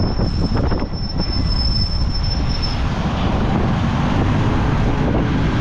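Riding noise on a moving motorcycle taxi: wind rushing over the microphone with engine and road rumble. A thin, steady, high-pitched whine sounds over it and stops about three seconds in.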